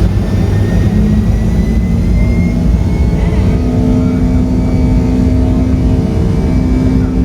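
Pratt & Whitney PW2000 turbofan engines of a Boeing 757-200 at takeoff power, heard from inside the cabin: a loud, steady engine roar over a heavy low rumble, with a few steady tones riding on top.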